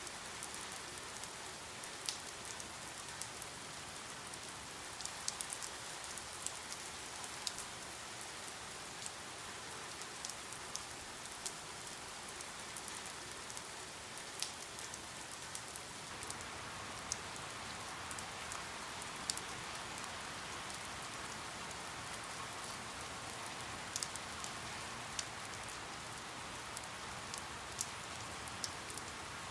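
Steady rain falling, a continuous hiss with many separate drops ticking sharply on a hard surface close by.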